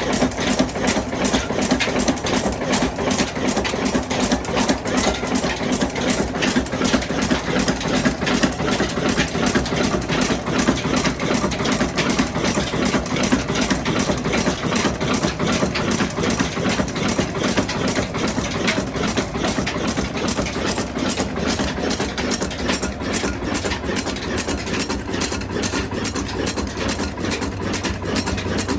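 Ruston diesel engine running with a steady, rapid, even beat. In the last quarter a low steady hum comes in underneath.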